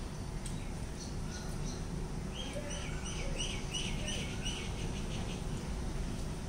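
A bird chirping, a quick run of about eight or nine short, high notes in the middle, over a steady low background rumble.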